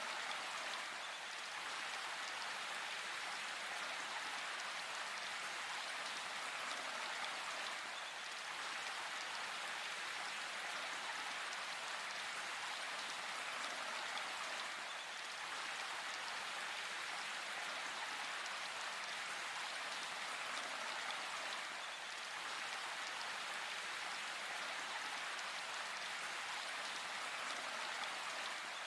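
Steady rain: an even hiss of many falling drops, with no thunder.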